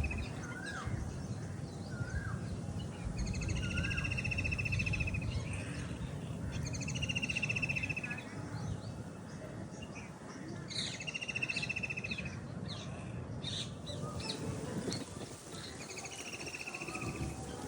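Birds singing: one bird repeats a rapid, buzzy trilled phrase of about a second, every three to four seconds, with shorter chirps between, over a steady low rumble.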